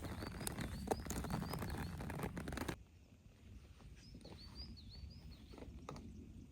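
Rustling and clicking of gear being handled, which cuts off abruptly about three seconds in. A songbird sings a short phrase of quick repeated chirps twice, once about a second in and once about four seconds in, against quiet outdoor ambience.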